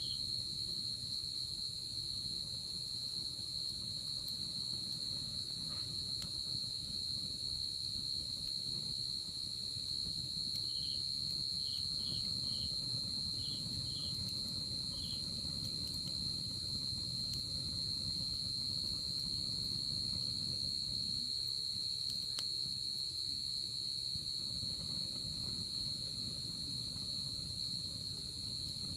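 Night insects, crickets, trilling in one continuous high-pitched chorus, with a handful of short chirps from another caller around the middle. Underneath is a low rumble from the campfire, with a few faint crackles.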